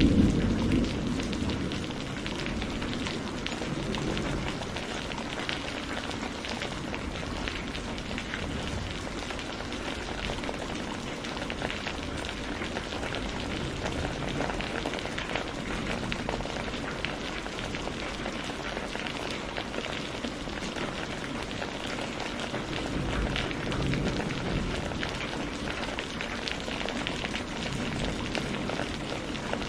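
Steady rain falling, a dense even patter of drops. A low rumble of thunder dies away in the first two seconds, and a fainter low rumble swells briefly a little over twenty seconds in.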